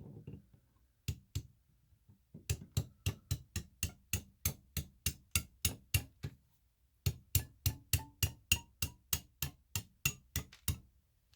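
Steady hammer taps on a chisel driven into a slab of fossil-bearing rock, to split it open along its layer: two single hits, then a run of about three to four hollow "donk" strikes a second, a brief pause, and a second run.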